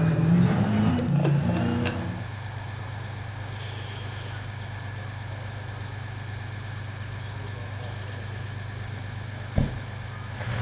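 A vehicle engine running: louder and shifting in pitch for about the first two seconds, then a steady low drone. A single knock comes near the end.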